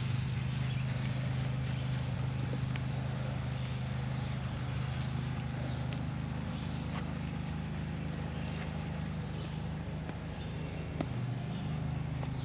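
A steady low motor-like hum, with a constant sizzling hiss from bacon frying over a campfire and a few faint pops, one sharper click about eleven seconds in.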